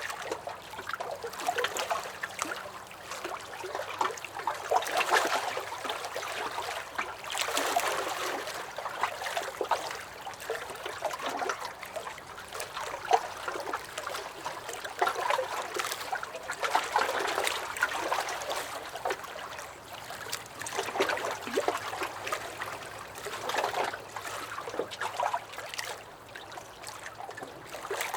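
Small lake waves lapping and splashing against a dock, in irregular swells every second or two.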